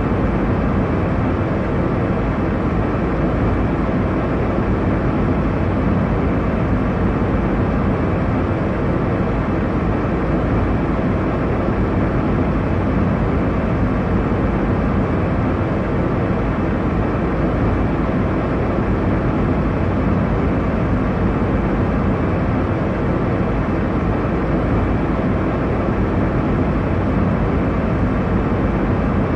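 Airliner cabin noise in cruise: a steady, even rush of engine and airflow noise, heaviest in the low and middle range, with a faint steady hum and no changes.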